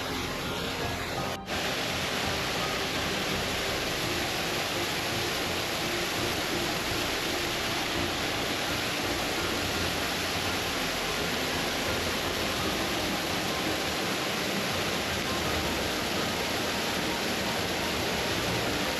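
Water of a moorland waterfall rushing over rocks close to the microphone, a steady loud rush with a brief break about a second and a half in.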